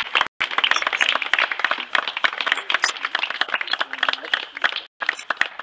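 A group of people applauding, many hands clapping loudly and fast together; the sound drops out completely for an instant twice.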